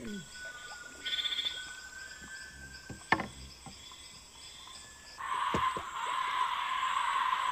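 Amazon rainforest chorus of frogs and insects: a steady high insect whine with a few short frog calls, then a loud, dense buzzing chorus cuts in abruptly about five seconds in.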